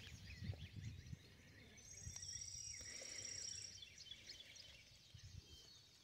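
Faint songbirds calling with scattered short chirps. About two seconds in, a high, fast trill runs for about two seconds.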